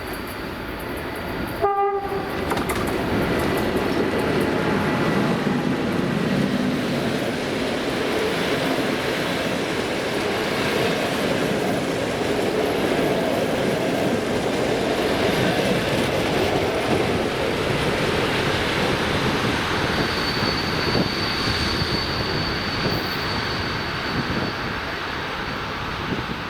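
A train passing close by: a short horn blast about two seconds in, then the steady rumble and clatter of wheels over the rails. A thin high squeal runs through the last several seconds.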